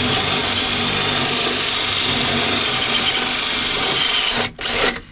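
Electric drill boring out a spot weld in a car's sheet-steel inner wing: a steady high whine with the bit grinding in the metal for about four seconds, a short break, then one brief burst near the end. The bit nearly breaks through the panel.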